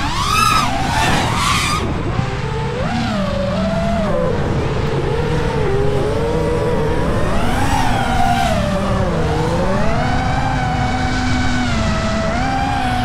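Nazgul5 5-inch FPV quadcopter's brushless motors and propellers whining. The pitch swoops up and down quickly over the first two seconds, then settles into a slower, wavering whine as the throttle changes, over a steady low rumble.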